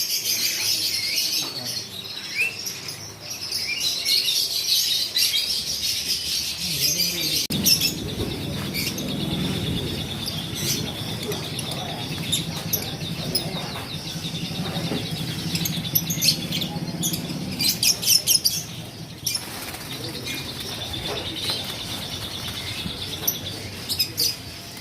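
Lovebirds chattering with dense, shrill chirps and several flurries of wing-flapping. A low steady hum runs beneath them from about eight seconds in until about eighteen.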